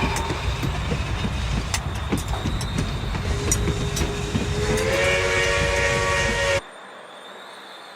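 Model train running on the layout's track: a steady rumble with frequent clicks of wheels over rail joints, and a sustained tone that steps up in pitch about five seconds in. The sound cuts off abruptly near the end, leaving faint hiss.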